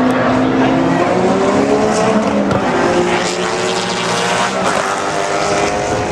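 Several V8 muscle race cars running hard past together, their overlapping engine notes shifting in pitch as they go by.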